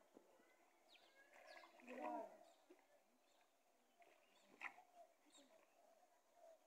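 Faint bird calls: short chirps scattered through, with repeated low notes, and a brief faint distant voice about two seconds in.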